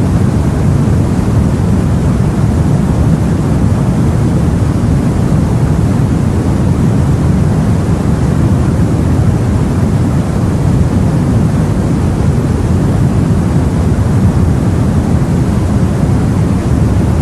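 Steady, low rumbling sea ambience of wind and water, heard as from a boat on open water, with no separate wave breaks.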